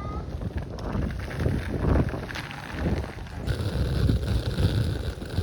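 Wind buffeting the microphone: an uneven low rumble with irregular thumps.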